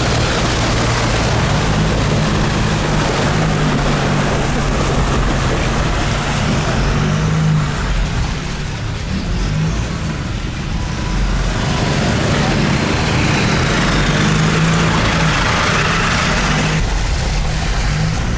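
Vehicle engine running while driving, its pitch stepping up and down as the speed changes, over a steady rush of tyre and wind noise.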